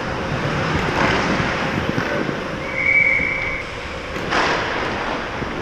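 Ice hockey rink sound heard from the goaltender's position: skate blades scraping and carving the ice in a steady hiss, with a brief high squeal near the middle and a sharp knock about four and a half seconds in.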